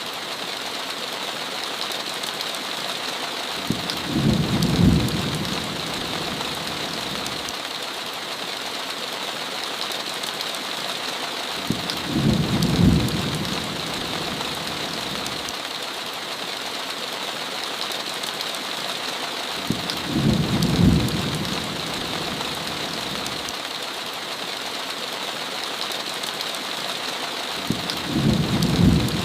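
Heavy rain falling steadily on a window, with a low rumble of thunder coming four times, about every eight seconds.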